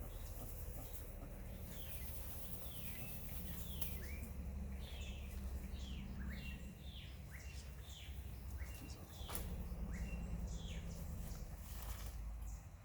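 A bird calling in a quick series of short, downward-sliding chirps, several a second, over a low steady rumble.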